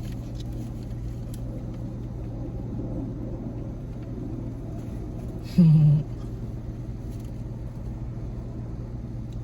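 Steady low rumble of a car's cabin with the engine running. A little past halfway, a person makes one brief, loud voice sound.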